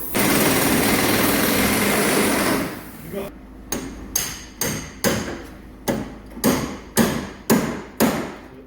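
A loud, steady rush of noise for about two and a half seconds, then a hammer striking metal about ten times at a steady rate of roughly two blows a second, each blow ringing briefly.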